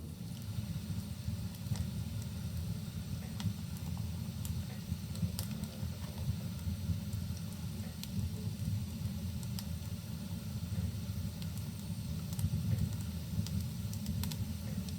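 Wood fire burning in a fireplace: a steady low rush of flames with sharp crackles and pops from the burning logs, roughly one a second.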